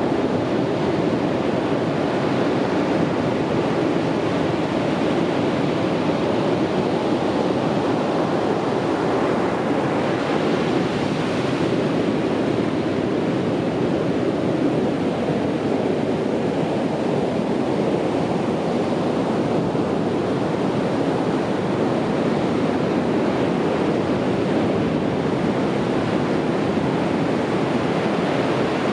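Sea surf: continuous wash of breaking waves, with a slight swell around the middle.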